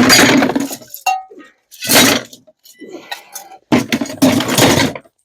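Loose scrap metal crashing and clattering as a bucket of steel scrap is tipped out into a bin, in three loud dumps with short metallic clinks ringing between them.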